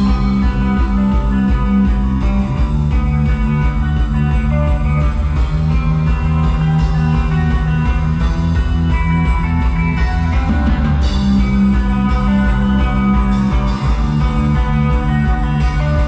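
A live rock band playing an instrumental passage: guitar over sustained low notes that change every couple of seconds.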